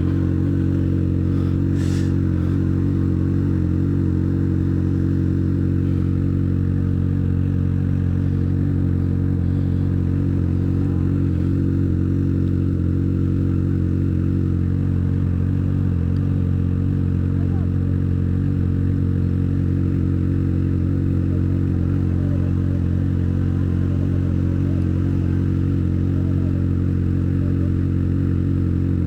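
Motorcycle engine running at a steady speed while riding, a constant drone that holds one pitch throughout.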